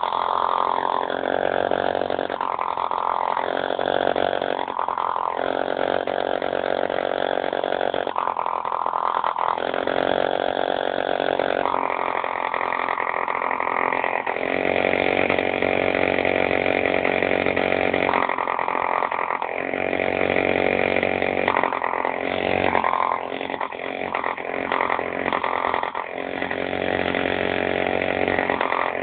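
B51 model diesel engine running steadily at high speed, a buzzing note like a small chainsaw, its tone shifting up and down every second or two.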